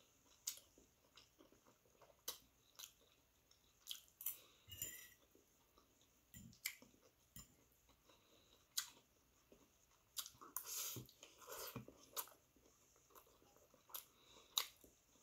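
Faint close-up chewing and mouth sounds of someone eating pancit canton noodles. There are scattered soft clicks and a brief noisier stretch about ten seconds in.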